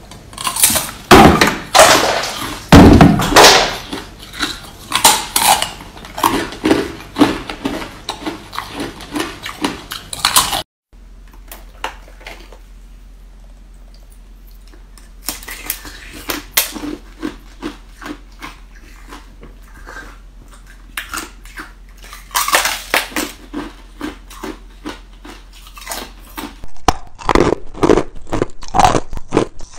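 Ice being bitten and crunched by teeth, in loud bursts of sharp crunches and chewing. The sound cuts off suddenly just over ten seconds in, gives way to a quieter stretch with only scattered small crunches, and the crunching builds up again near the end.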